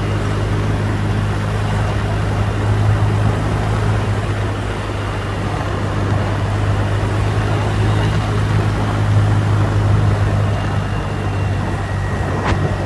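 Motorbike engine running steadily while riding, with a constant low drone under wind and road noise. A brief sharp sound comes near the end.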